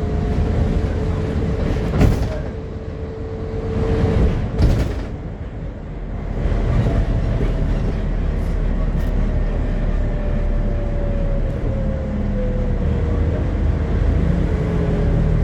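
Scania double-decker bus running, with a steady low engine rumble and a whine that falls slowly in pitch through the second half. Two sharp knocks or rattles come about two seconds in and just before five seconds.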